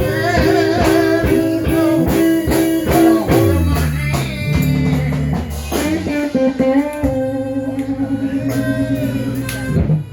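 Live electric blues band playing: electric guitar with bends and a long held, wavering note over bass and steady drums.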